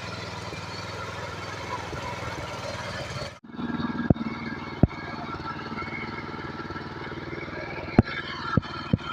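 Tractor engine running steadily. A little over a third of the way through, the sound breaks off abruptly and resumes, and a few sharp knocks follow.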